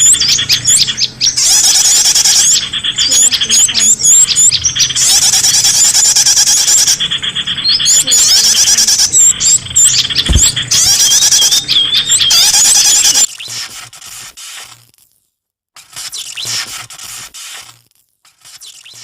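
Loud, dense chorus of small songbirds chirping and trilling rapidly, a bird-lure call recording meant to draw in small birds. About 13 seconds in it drops suddenly to fainter, broken bursts of calls.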